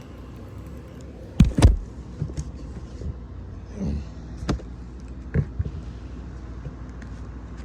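Cardboard packaging and its contents being handled: two loud knocks about a second and a half in, then scattered lighter clicks and taps over a steady low room hum.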